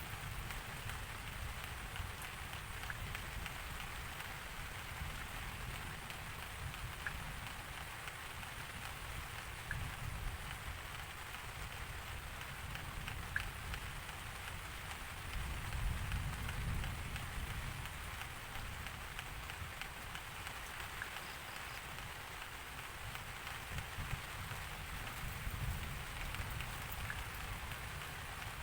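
Steady rain falling, with scattered single drop ticks. A low rumble swells briefly about halfway through.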